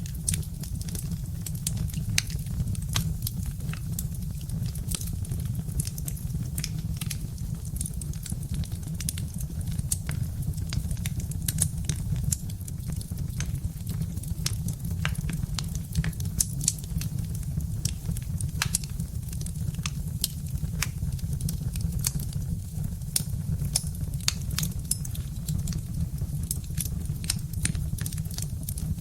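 Birch-wood fire burning in a fireplace: a steady low rumble of the flames with frequent sharp, irregular crackles and pops from the burning logs.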